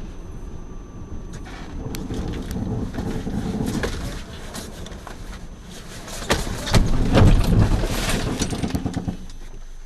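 Car driving noise, a steady rumble that builds, with a loud burst of knocks and rumbling about six to eight seconds in.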